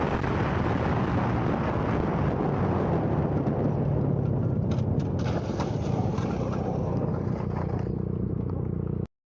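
Steady rumble and hiss of a vehicle on the move, road and wind noise, that cuts off abruptly near the end.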